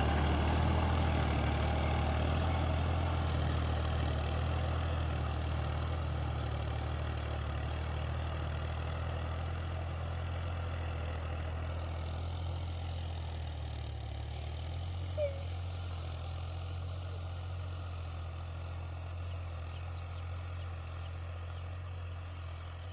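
Al-Ghazi tractor's diesel engine running with a steady low drone, slowly getting quieter. There is one brief chirp about fifteen seconds in.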